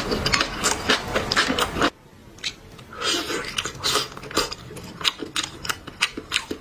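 Close-up chewing and crunching of chicken heads, with rapid irregular wet clicks from the mouth. A louder, noisier stretch of clicking stops abruptly about two seconds in, and quieter chewing clicks go on after it.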